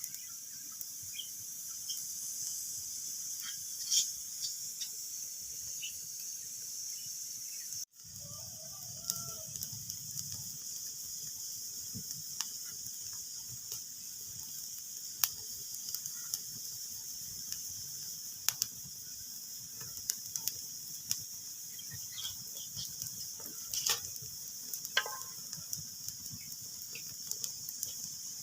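Wood fire crackling in a fireplace: a steady hiss with scattered sharp pops and snaps, a few of them louder. The sound cuts out for a moment about eight seconds in.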